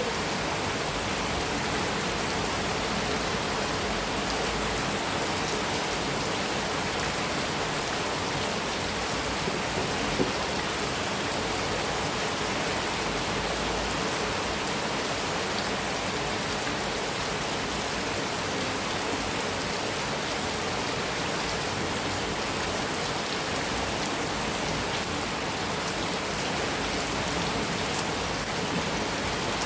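Heavy rain falling steadily on a metal roof, an even unbroken hiss of drops, with one sharper drop or tap about ten seconds in.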